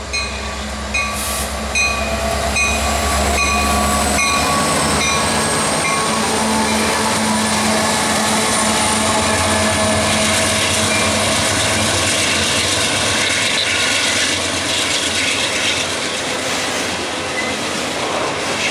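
A CSX freight train passing close by. The lead diesel locomotives, an EMD SD70MAC and a GE CM44AH, rumble past with a bell ringing about three strokes a second, and both the rumble and the bell fall away about four seconds in. Autorack cars then roll by with steady wheel-on-rail noise and thin high wheel squeals.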